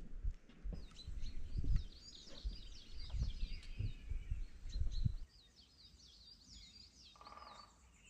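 Small birds chirping and twittering, many quick high calls sweeping downward, over heavy low rumbling bursts that stop about five seconds in.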